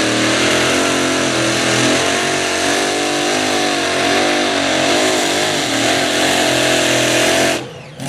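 Competition pulling tractor's engine running flat out under load, a steady high drone whose pitch wavers slightly as it pulls. The sound drops away abruptly near the end.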